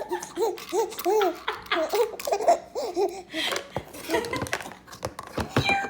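Six-month-old baby laughing and babbling in a quick run of short, high-pitched squeals that rise and fall, for about three seconds, then fewer, softer sounds.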